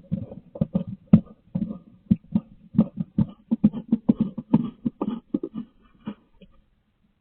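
Irregular knocking and rustling inside a wooden nest box as straw and bedding are packed in by hand, close to the box's camera microphone. The knocks come two to four a second and stop about six seconds in.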